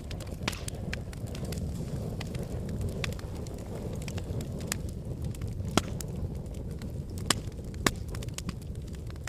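Wood fire burning in a fireplace: a steady low rush of flame with irregular sharp crackles and pops, a few louder pops in the second half.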